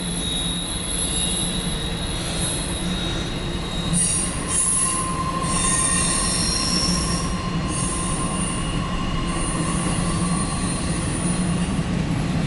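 CSX intermodal freight train's cars rolling past at a grade crossing, heard from inside a car: a steady rumble of wheels on rail, with high-pitched wheel squeal that comes and goes from about four seconds in.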